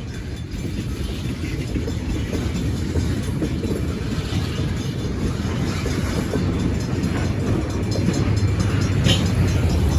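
Stockton Terminal and Eastern freight train rolling by: a steady low rumble of wheels on rail with scattered clicks, and a brief higher-pitched screech about nine seconds in.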